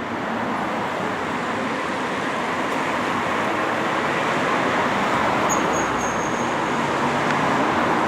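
Steady road traffic noise: a continuous rush of vehicle engines and tyres that slowly grows louder, with a faint high squeal about five and a half seconds in.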